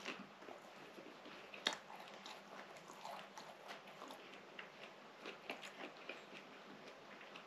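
Close-miked mouth chewing a soft, cheese-filled fatayer pastry: faint, irregular wet smacks and small clicks, with one sharper click about a second and a half in.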